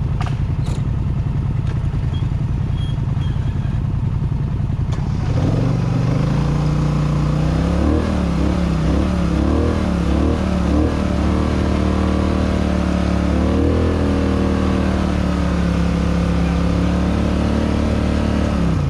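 Dirt bike engine running low for about five seconds, then revving up, its pitch wavering up and down under the throttle before holding high and steady, and dropping off near the end, as on a hill climb.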